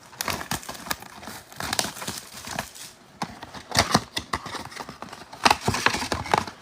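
Trading-card packs and cardboard boxes being handled on a table: irregular taps and clicks, with wrapper plastic crinkling.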